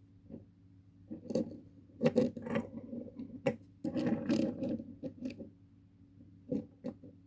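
Handling noise of small die-cast toy tractors being picked up and set down: irregular clicks, knocks and rustles, busiest about two and four seconds in, over a faint steady hum.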